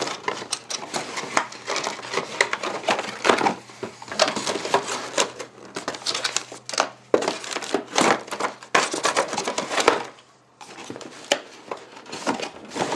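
Motherboard box and its packaging being handled: irregular rustling, crinkling and light knocks of cardboard and plastic, with a brief lull about ten seconds in.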